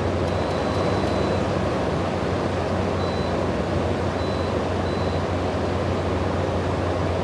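Frigidaire 6000 BTU window air conditioner running on its fan only: a steady rush of air over a low electric hum, with no compressor cutting in, because the compressor is not kicking on.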